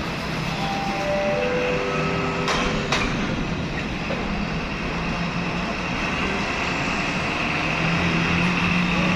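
Heavy container trucks' diesel engines running with a steady rumble as they move slowly, with two sharp clicks around two and a half and three seconds in.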